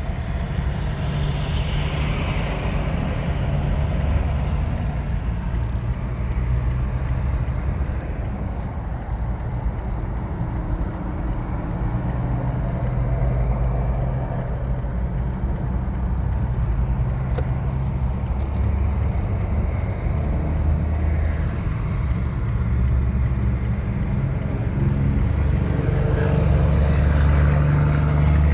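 Steady low rumble of motor vehicle engines and road noise, growing a little louder near the end.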